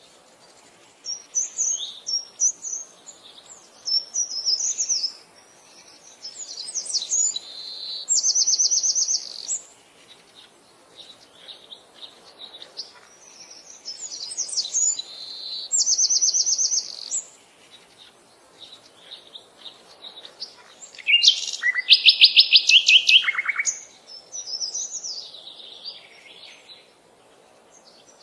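Songbirds singing: phrases of varied high whistles, several ending in fast trills, repeating every few seconds with short pauses between. The loudest trilled phrase comes about three quarters of the way through.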